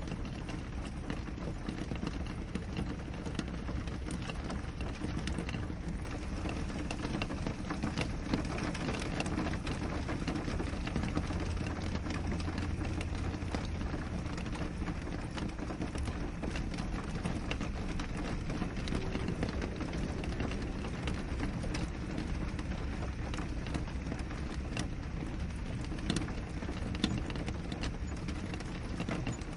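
Steady rain on a window: a constant wash with many individual drops ticking against the glass. A low rumble sits under it for a few seconds around the middle.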